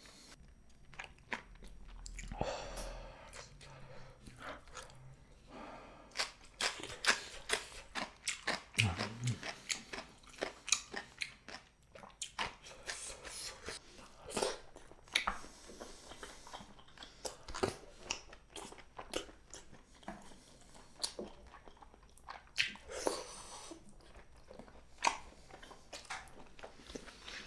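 Close-miked chewing of spicy cheese jjimdak (braised chicken): wet chewing with many short mouth clicks and bites, coming thickest from about six seconds in until the middle of the stretch.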